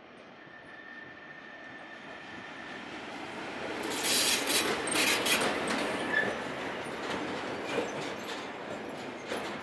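SBB electric locomotive hauling a freight train approaches and passes close by, growing steadily louder to a peak about four to five seconds in, with sharp wheel-on-rail clicks. The sliding-wall freight wagons then roll past with a steady rumble and scattered clicks. A thin steady high tone is heard during the first two or three seconds.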